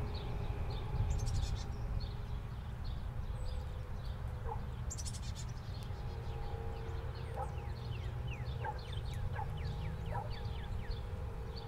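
Birds chirping: scattered short calls, then a run of quick falling whistles from about seven seconds in, with a brief high rattle twice. A low steady rumble and a faint hum run underneath.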